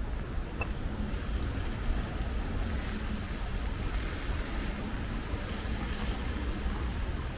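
Steady rain falling on a city street: a continuous, even hiss with a low rumble underneath.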